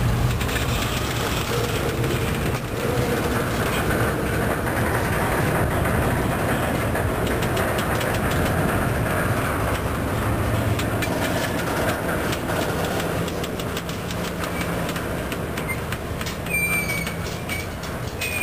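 Double-stack intermodal container train rolling past at track side: a steady rumble of the well cars with rapid clicking of wheels over the rail joints. Two short high-pitched tones sound near the end.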